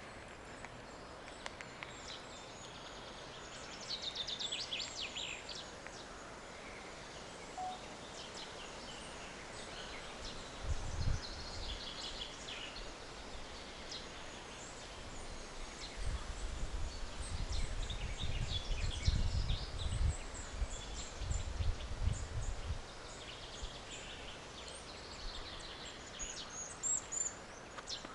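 Several wild birds singing, with a fast high trill about four seconds in and scattered chirps throughout. Low rumbling bursts come in near the middle.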